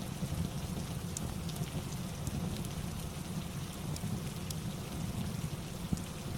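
Steady rain ambience with a constant low rumble and scattered faint high clicks.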